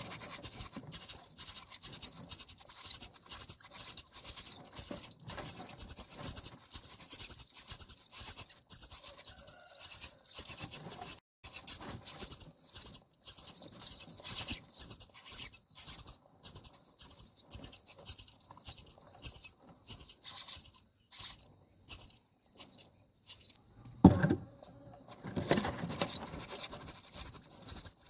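Common myna nestlings giving rapid, high-pitched begging calls over and over, thinning out for a few seconds before a brief low thump, after which the calling picks up again.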